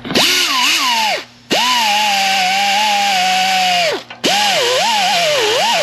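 Power tool spinning a wire wheel against a rusty transmission selector shaft, scrubbing off corrosion. It runs in three bursts with brief stops about a second in and about four seconds in, its high whine sagging and wavering as the wheel is pressed into the metal.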